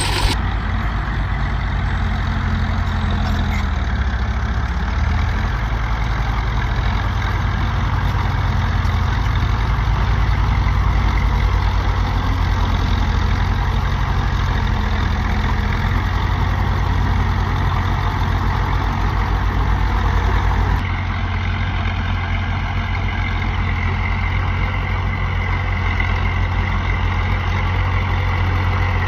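Heavy diesel engine of earthmoving machinery running steadily, with an abrupt change in the sound about two-thirds of the way through.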